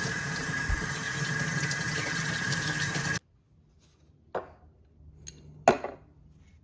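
Water running steadily as rust-remover-soaked metal plane parts are rinsed in a water bath. About three seconds in, the water cuts off suddenly, followed by two sharp clinks, the second louder.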